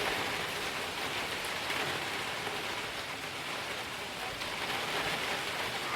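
Steady hurricane rain falling and pattering on surfaces, an even hiss that does not let up.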